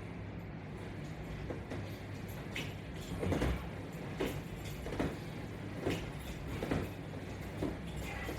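A person doing sit-ups with resistance straps: a short sound with each repetition, a little more than one a second, starting about three seconds in, over a steady low hum.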